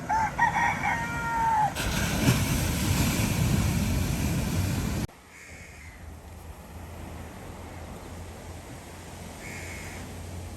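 A rooster crowing once, then a loud rushing noise that cuts off suddenly about five seconds in, leaving quieter steady background noise with a low hum.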